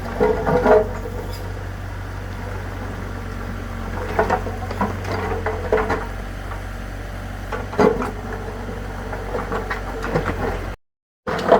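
A tractor engine running steadily at a low hum, with irregular clattering knocks over it, like stones being tossed. The sound cuts out briefly near the end.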